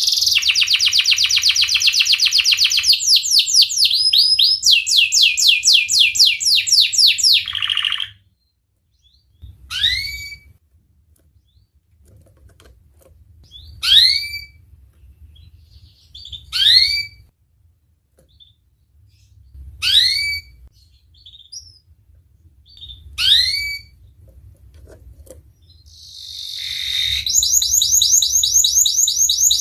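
Domestic canary singing: fast rolling trills for the first eight seconds, then five single rising chirps spaced about three seconds apart, and rapid trills again near the end.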